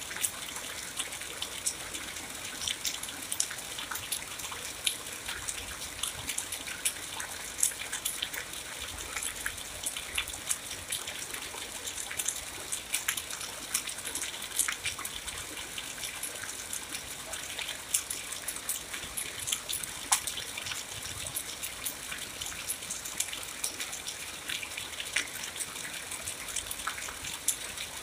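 Steady rainfall, a continuous hiss with many close, sharp drop hits standing out all through it.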